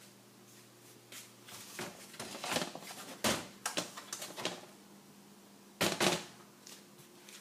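Irregular clicks, knocks and clatters of something being handled, in two clusters, over a faint steady low hum.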